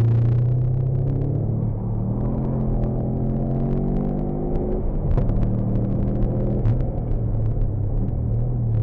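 Subaru Legacy Turbo's turbocharged flat-four engine under hard driving, heard from inside the cabin. The revs climb over a few seconds, fall back with a sharp click about five seconds in, then the engine pulls on.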